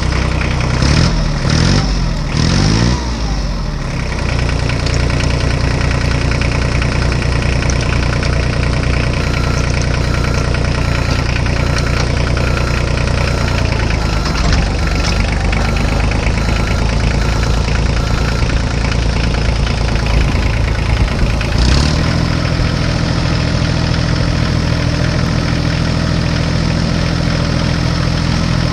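An engine running: it revs up and down a few times in the first few seconds, then runs steadily, and its tone changes about 22 s in.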